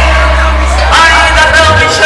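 Loud live band music over a big sound system, with a deep bass note held through the first second and a voice singing or calling out about a second in.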